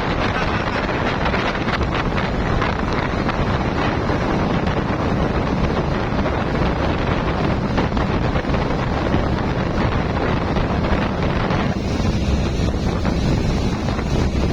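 Steady wind buffeting the microphone on a moving motorboat, with the boat's engine and rushing water underneath.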